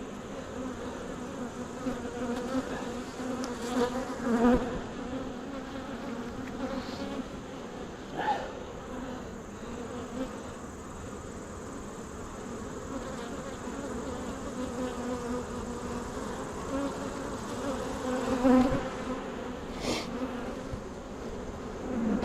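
Honeybees buzzing around an open hive: a steady hum, with single bees now and then flying close by and briefly swelling louder.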